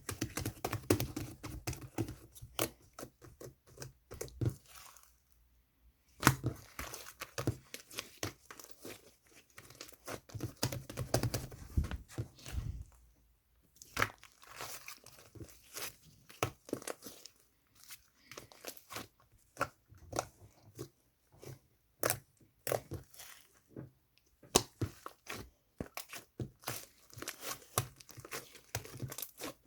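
Slime being squeezed and stretched by hand, giving dense runs of sharp little pops and crackles that stop briefly twice.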